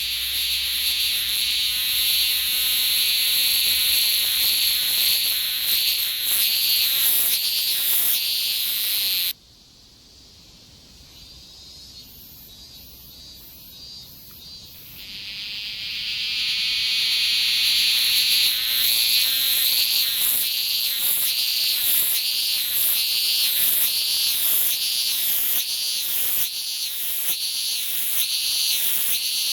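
Cicada singing close by: a loud, high-pitched buzz that cuts off abruptly about nine seconds in, then starts again faintly around fifteen seconds and swells back to full strength, pulsing roughly once a second.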